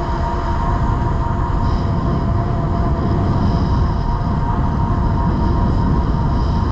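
Wind rushing over the microphone on a moving e-bike at speed, with the electric motor's steady whine underneath.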